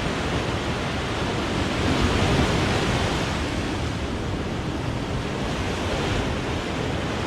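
Ocean surf breaking and washing on the shore in a steady rush of noise that swells a little a couple of seconds in, with some wind on the microphone.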